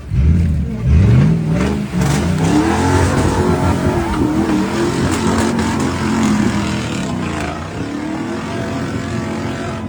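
Off-road truck's engine revving hard under load. Its pitch climbs sharply about a second in, then wavers up and down, and it eases off near the end.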